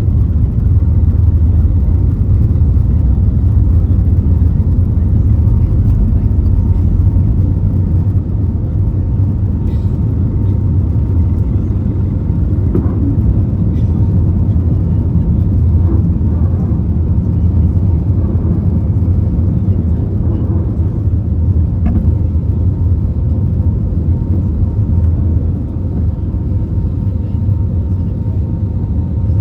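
Airbus A320neo cabin noise: the steady low rumble of its CFM LEAP-1A26 engines and the airflow, heard from inside the cabin, easing slightly after about eight seconds. A few faint clicks sound now and then.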